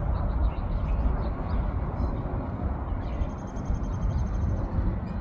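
Steady low outdoor rumble, like road traffic or wind on the microphone, with faint bird chirps and a quick high trill about three seconds in.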